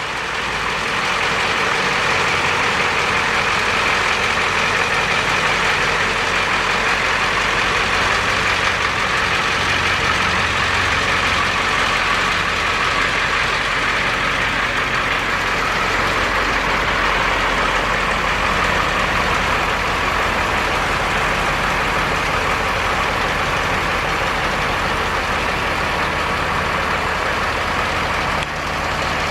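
A box truck's engine idling steadily.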